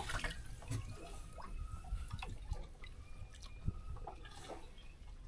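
Water dripping and trickling, with scattered light clicks and knocks.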